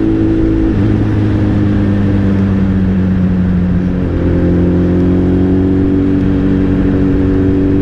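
Suzuki Hayabusa's inline-four engine running at a steady cruise while riding. The engine note steps down slightly about a second in and again about four seconds in.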